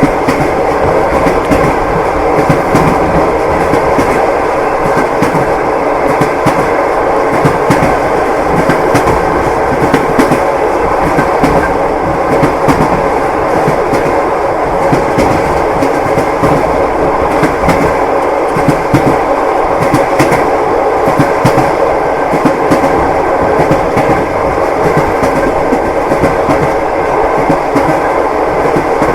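Railway carriage running along the track: a steady rumble with the wheels clacking over the rail joints throughout.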